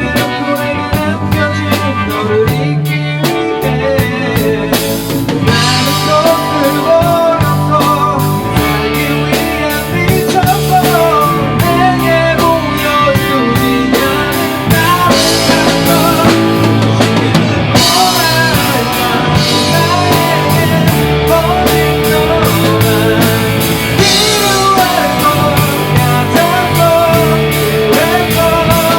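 Rock band playing live together: drum kit keeping a steady beat under bass and electric guitar, in a stretch of the song with no singing.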